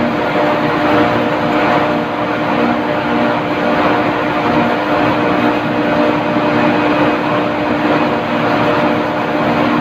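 Loud, steady machinery drone with a constant hum.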